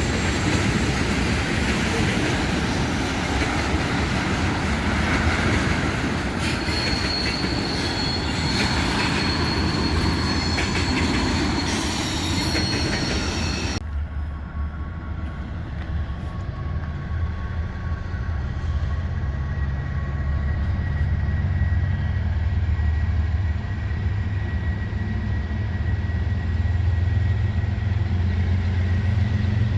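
Train wheels rolling on rail, squealing in high tones for several seconds midway through. After an abrupt change, a steady low rumble with a faint thin whine follows.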